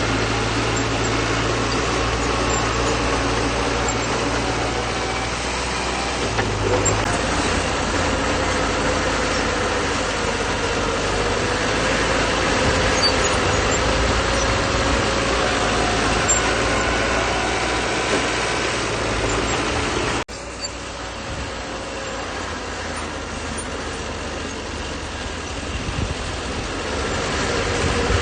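Bulldozer's diesel engine running steadily as the machine works, its pitch shifting a little now and then. About two-thirds of the way through the sound changes abruptly and continues slightly quieter.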